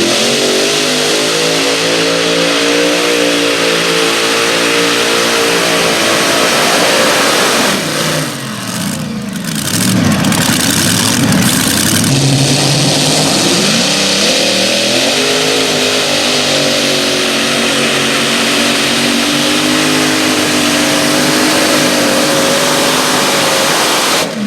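Engine of a pulling tractor or truck running at high revs under load during a pull. About eight seconds in the revs fall away and the sound dips, then climbs again and holds high.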